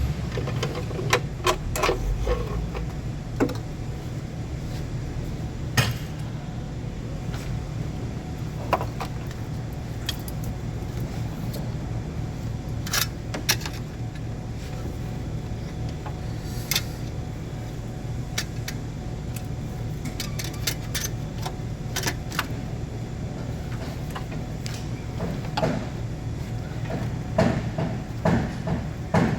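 Scattered sharp metallic clinks and taps of hand tools on engine parts, over a steady low machine hum, with a quick run of clinks near the end.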